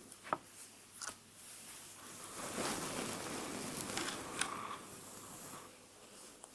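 Close-miked ASMR hair sounds: hair being handled and rustled, with a few small sharp clicks. A louder rustling stretch runs through the middle.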